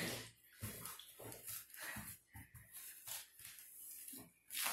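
Close-up eating sounds: chewing and mouth noises as a series of short, irregular sounds with brief gaps, a slightly louder one near the end.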